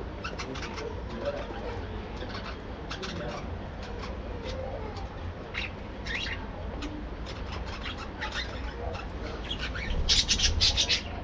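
A colony of budgerigars chattering, with many short chirps one after another. Near the end the calls bunch into a louder burst of squawking chatter.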